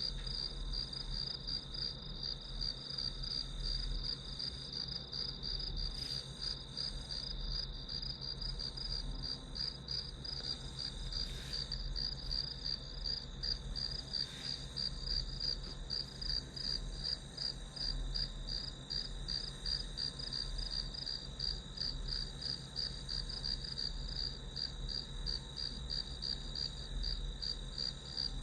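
Crickets chirping steadily, a high trill pulsing at an even rate, over a faint low rumble.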